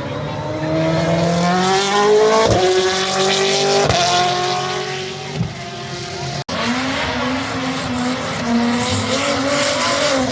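Car engine revving hard on track, its pitch climbing and dropping sharply at gear changes about two and a half and four seconds in, with tyres squealing. The sound cuts out for an instant about six and a half seconds in, then the engine runs on.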